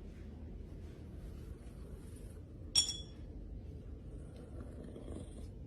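A single short clink, about three seconds in, with a brief high ring, over faint background noise.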